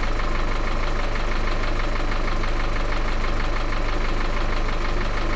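Car engine idling steadily with a light, fast, even ticking knock from the hydraulic valve lifters. A small knock remains after an oil and filter change, which the mechanic takes as a sign that one lifter will need replacing.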